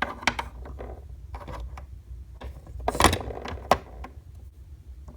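Small plastic toy playset pieces clicking and knocking against each other and the table as they are handled and set down, a string of separate taps with the loudest knock about three seconds in.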